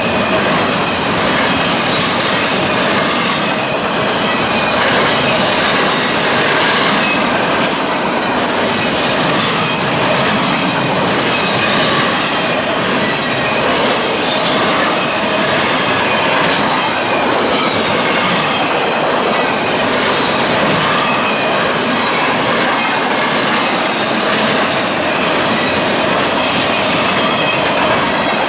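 Freight train cars rolling past, a loud, steady rumble and rattle of steel wheels on rail with some wheel squeal.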